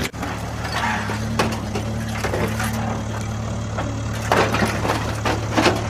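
A small motor running steadily with a low hum, under a rattling, crunching clatter of scattered clicks.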